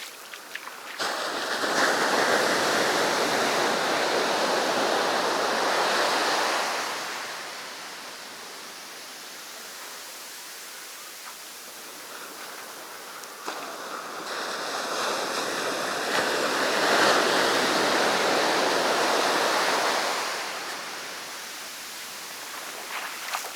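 Sea surf washing onto the beach: two waves break and rush up the shore, one just after the start and one in the second half, each swelling for several seconds and then falling back to a softer wash.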